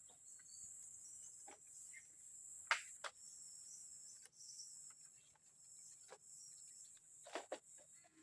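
Steady high-pitched chorus of forest insects, crickets or similar, with a few scattered sharp knocks, the loudest about three seconds in and a close pair near the end.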